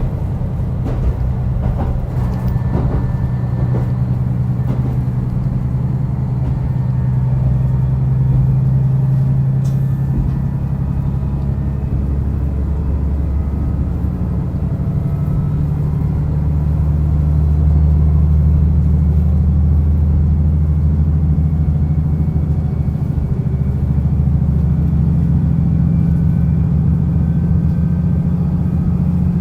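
Diesel railcar running on the Rumoi Main Line, its engine drone heard on board, steady and low, stepping up in pitch a few times as it works harder.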